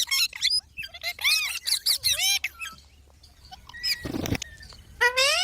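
Green parrots chirping in a rapid run of short, arched, whistled calls, with a short harsh noisy burst about four seconds in and another chirp near the end.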